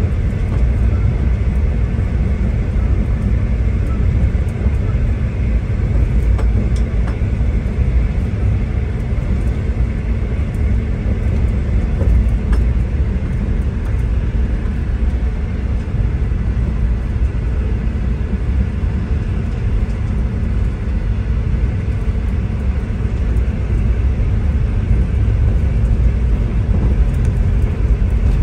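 V/Line diesel passenger train running, heard from on board: a steady, low rumble.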